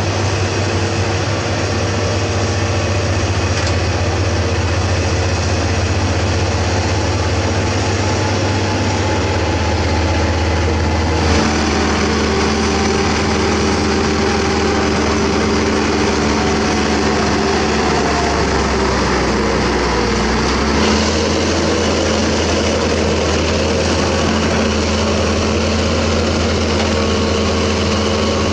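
Diesel engines of Hitachi Zaxis 200-5G crawler excavators and a Shantui SD16F bulldozer running steadily under work. The engine note shifts about eleven seconds in and again around twenty seconds in.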